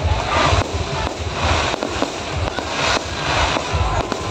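Fireworks going off in a dense crackle of rapid pops and bangs, with louder bursts about every second and a low rumble underneath.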